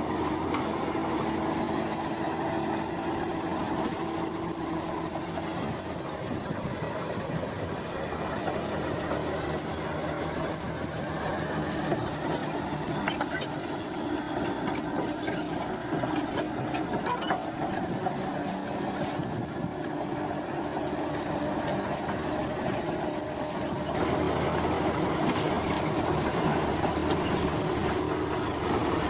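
Heavy crawler bulldozer working: a steady diesel engine with a continuous high, pulsing metallic squeal and clanking from the steel tracks.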